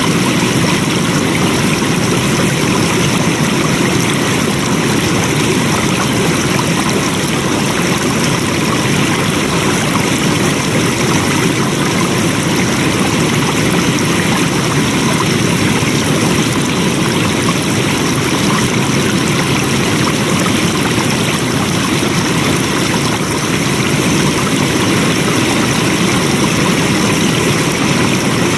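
Flowing water rushing steadily and evenly, with no change in strength.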